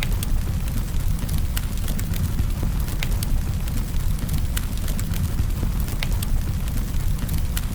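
Campfire of burning wood crackling: irregular sharp pops and snaps over a steady low rumble of the flames.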